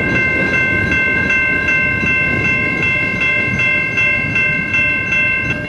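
Long freight train rolling past at about 28 mph, its cars rumbling. Over it, a railroad crossing's electronic warning bell rings steadily, about two to three strokes a second.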